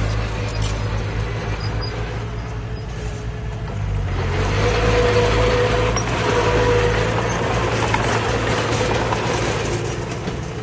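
Heavy diesel earthmoving machinery running with a steady low drone. It grows louder and noisier about four seconds in, then eases slightly near the end.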